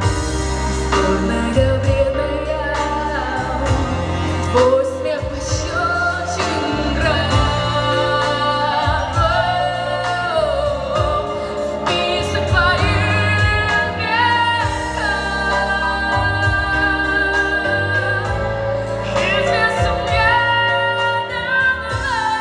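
Female solo vocalist singing, with gliding held notes, over instrumental accompaniment with a steady bass.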